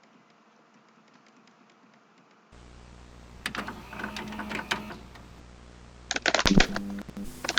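Clicking of a computer keyboard and mouse, faint at first; about two and a half seconds in a low hum comes up and the clicks get louder, with a quick run of sharp clicks near the end.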